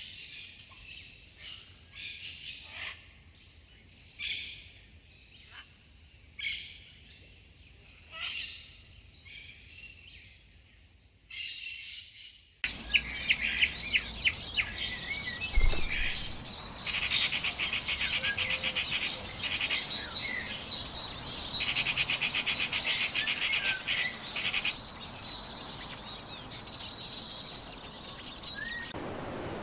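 Wild birds calling and chirping in a tropical forest, with short repeated high calls at first. About twelve seconds in, the sound cuts abruptly to a busier chorus of chirps with rapid trills. A brief low thump comes a few seconds after the cut.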